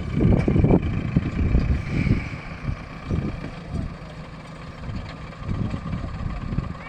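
Heavy diesel engine running, with a steady high whine over an uneven low rumble that is strongest in the first second.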